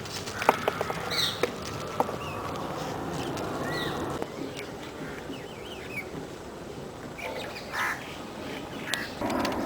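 Birds chirping and calling in short rising and falling notes over steady outdoor background noise, with a few sharp clicks in the first couple of seconds.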